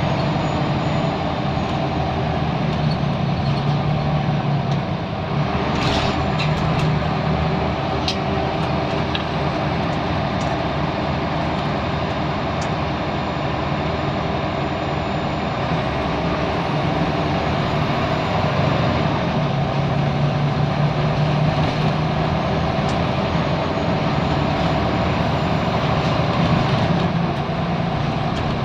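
Scania L94UB Wright Solar bus's five-cylinder 9-litre diesel running steadily under way, with a few sharp clicks and rattles about a fifth of the way in.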